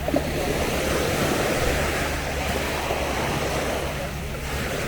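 Sea waves washing onto a beach, the surf swelling over the first second or two and then easing off.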